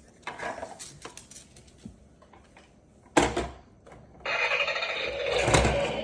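Handling clicks and a single knock, then a small electric motor starts about four seconds in and runs with a steady whir.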